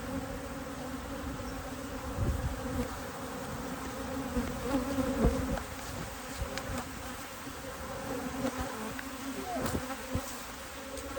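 Honeybee colony buzzing around an opened Kenyan top bar hive: a dense, steady hum, with a few faint knocks scattered through it.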